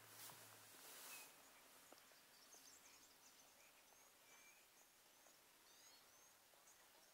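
Near silence of the bush: faint, distant bird chirps, short and high, scattered through, with two soft rustling swishes in the first second or so.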